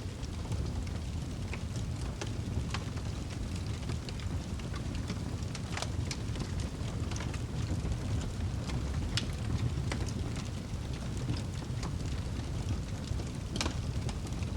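Wood fire burning in a fireplace: a steady low rush of flames with scattered sharp crackles and pops, a few louder pops about six, nine and thirteen seconds in.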